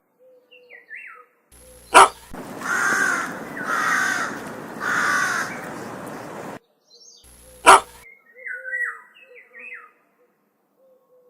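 Crow cawing: three loud, harsh caws about a second apart, with fainter, shorter calls before and after. Two sharp clicks break in, one just before the loud caws and one after them.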